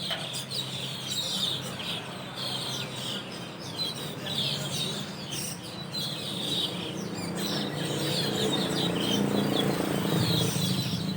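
A flock of Asian glossy starlings calling at their roost tree: many short, sharp chirps overlapping without pause. A low steady hum runs underneath and grows louder over the last few seconds.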